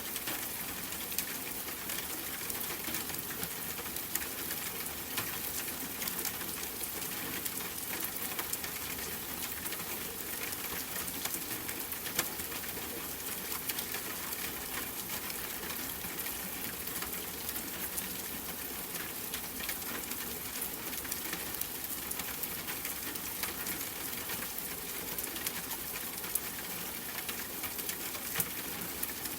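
Steady rain patter: an even hiss of falling rain with many small, sharp drop ticks scattered through it.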